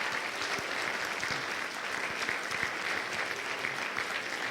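Congregation applauding steadily: many people clapping at once, a dense even patter of claps.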